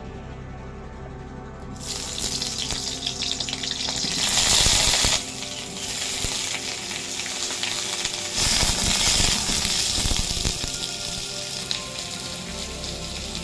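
Food sizzling in hot oil in a pan, starting about two seconds in and growing much louder twice, over background music.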